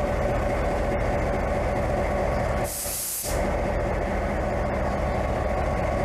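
Train running, a steady rumble with a droning hum, broken about three seconds in by a half-second burst of high hiss like air released from the brakes.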